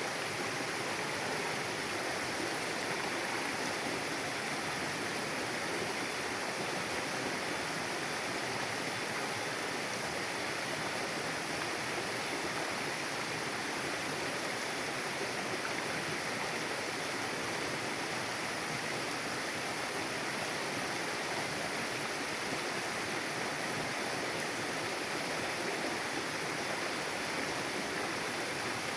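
Mountain river flowing over rocks, a steady rushing and babbling of water that does not change.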